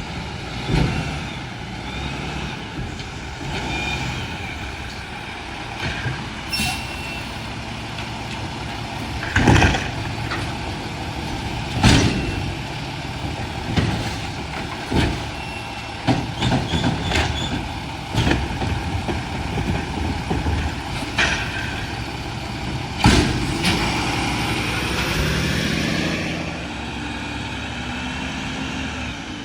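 Mack LR garbage truck with a McNeilus automated side-loader body working: the diesel engine runs steadily, with a string of loud bangs and clatters as carts are handled and emptied, and a rising engine or hydraulic sound near the end.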